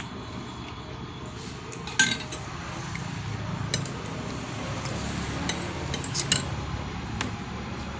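Cutlery clinking against a plate several times, the sharpest clink about two seconds in, over a low steady background hum.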